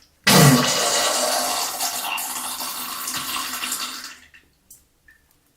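Diarrhea sound effect: a sudden loud, wet gush and splatter into toilet water that tapers off over about four seconds, followed by two faint short sounds near the end.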